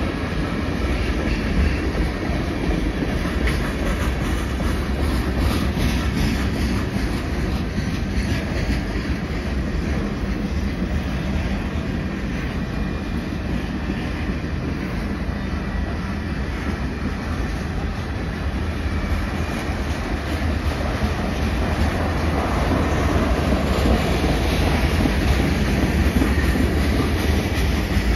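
Freight train cars rolling past close by: tank cars, empty bulkhead flatcars and hoppers, their steel wheels on the rails making a steady rolling noise that grows a little louder near the end.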